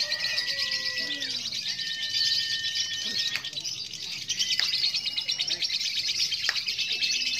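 Lovebird's long, continuous "ngekek" song: a rapid, shrill chattering trill that eases briefly around the middle and then picks up again.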